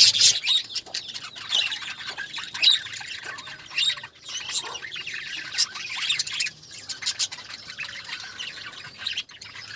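Budgerigars chattering, a dense run of short, sharp chirps and squawks overlapping one another.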